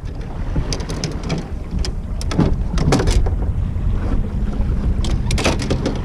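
Wind buffeting the action camera's microphone on the water, with scattered sharp clicks and knocks. A steady low hum comes in about halfway through.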